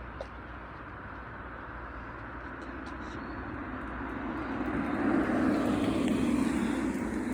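A passing vehicle: a steady noise that swells about four seconds in and is loudest near the end.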